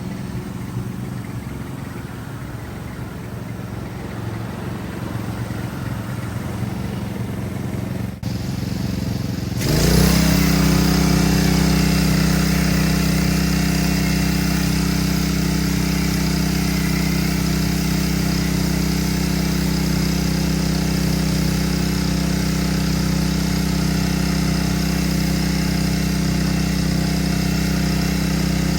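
Old Ford Thunderbird's engine idling. About ten seconds in, the sound abruptly becomes louder and steadier, an even low hum.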